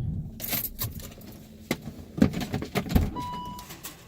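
A car's low engine running cuts out about half a second in. Clicks and knocks follow, with keys jangling, typical of getting out of a parked car, and a short beep a little after three seconds.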